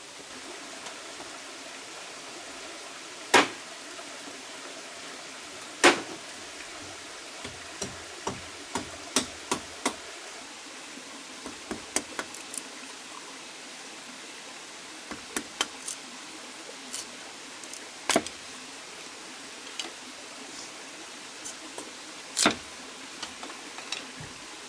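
Irregular sharp knocks, a few loud and several lighter ones in quick clusters, over a steady hiss.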